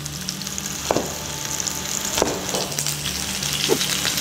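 Sliced onion and garlic sizzling in hot oil in a frying pan, the sizzle growing stronger through the second half, with a few soft knocks.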